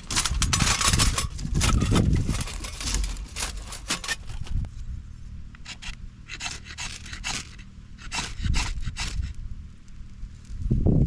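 Irregular scraping and rubbing strokes, dense at first and sparser after a few seconds, with heavy low thumps at the start and near the end.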